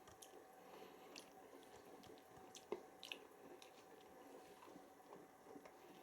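Near silence inside a Siemens iQ washing machine late in its final rinse: faint drips and small clicks over a faint steady hum, with one sharper click about two and a half seconds in.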